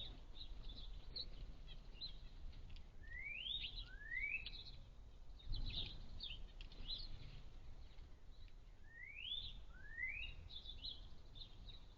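A flock of sparrows chirping in quick, scattered notes, with pairs of rising whistled notes heard twice. There is a brief low rumble about halfway through.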